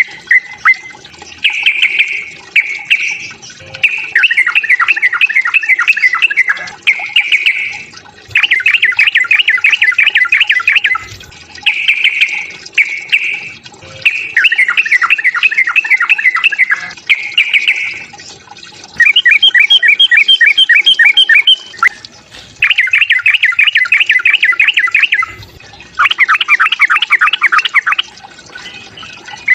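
Yellow-vented bulbul (trucukan) singing its aggressive 'fighting' song: a string of loud phrases of rapid chattering notes, each one to three seconds long, with short pauses between them.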